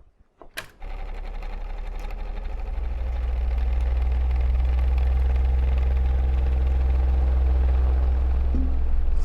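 Electric fan motor switched on with a click, its low hum building over the first few seconds as it spins up, then running steadily.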